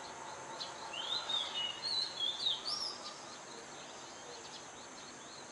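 Birds singing outdoors: a run of short chirping notes that slide up and down, mostly in the first half, over a steady background hiss.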